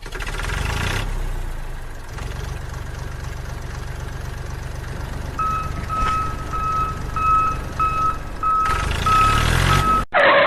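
A vehicle engine runs steadily at a low drone. About halfway in, a reversing beeper starts and beeps a little under twice a second, and a brief loud burst of noise cuts in at the very end.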